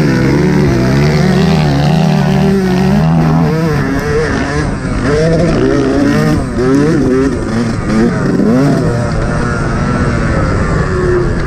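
Yamaha YZ125 two-stroke motocross bike revving hard, its pitch climbing and dropping over and over with throttle and gear changes. For the first few seconds a second engine holds a steadier note underneath.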